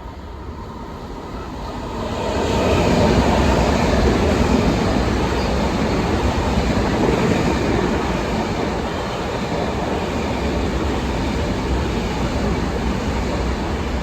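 Long Island Rail Road train passing along the tracks. Its rolling rumble builds over the first two or three seconds, then holds steady and eases slightly near the end.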